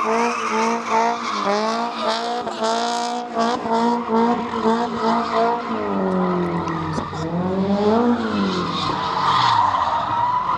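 Car engine held at high revs with tyres spinning and squealing on the pavement. The revs drop about six seconds in, then climb back up a couple of seconds later.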